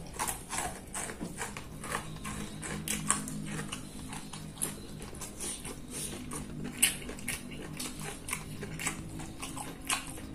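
Close-miked chewing and lip-smacking, a person eating with wet clicks and smacks several times a second. A faint low steady hum sits underneath from about a second in.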